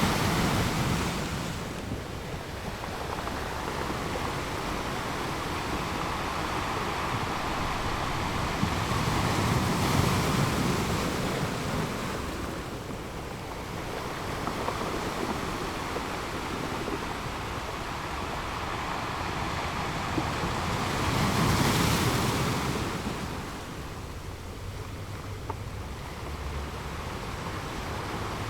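Sea waves breaking on a shore: a steady wash that swells three times, about ten seconds apart, and eases back in between.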